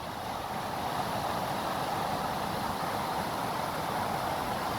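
Steady hiss of a fast-flowing mountain stream rushing over rocks.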